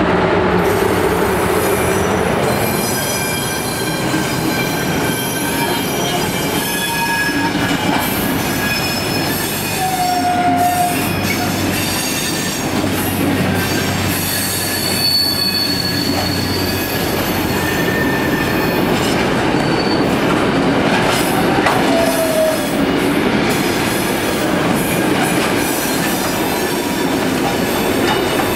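Freight train of container wagons rolling past at close range: a steady loud rumble of wheels on rail, with short wheel squeals now and then.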